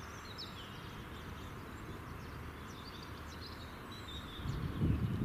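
Small birds chirping in short, repeated calls over a steady outdoor background noise, with a brief low rumble about four and a half seconds in.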